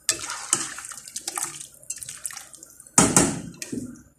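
Water running and splashing in uneven spurts, with a loud gush about three seconds in that dies away within a second.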